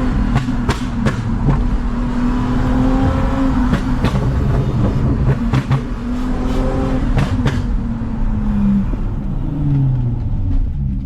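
Toyota Mark X V6 with a modified exhaust, droning at steady driving revs, its pitch falling near the end as the revs drop. Several sharp knocks or rattles sound over it.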